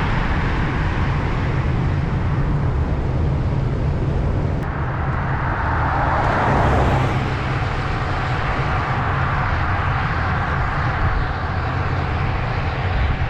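Road traffic noise over a steady low rumble, with a motor vehicle passing by about six to seven seconds in, its sound swelling and then fading.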